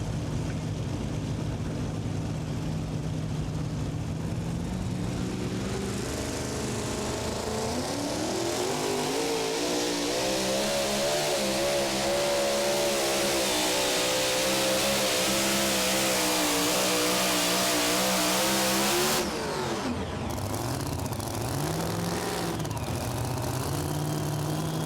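A super modified two-wheel-drive pulling truck's engine climbs in revs and runs at full throttle for about ten seconds, its pitch wavering, then cuts off abruptly. Afterwards it runs on at lower revs with a couple of rises and falls. The pull ends as something blows off the engine, which the announcer takes for a possibly broken fuel line.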